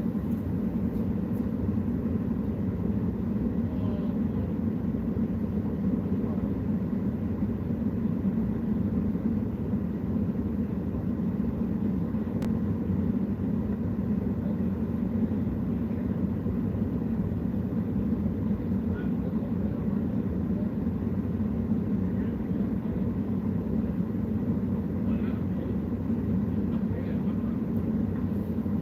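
Steady low rumble of a running vehicle, even in level throughout.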